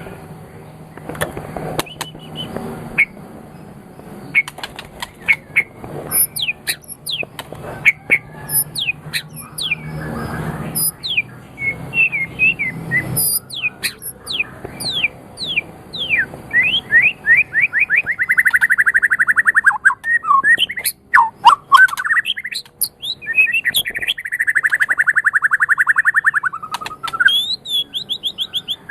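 White-rumped shama (murai batu) singing: a varied run of whistled notes and quick downward-sweeping calls, then two long, fast trills in the second half.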